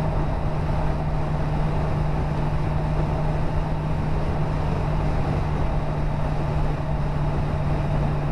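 Motorcycle engine running at a steady cruising speed, one constant low hum under a rushing wind and road noise.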